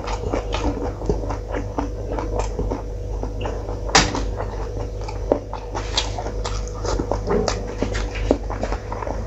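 Close-up mukbang eating: wet chewing and lip-smacking as a man eats rice and curry with his fingers, many short smacks with a sharper one about four seconds in, over a steady low hum.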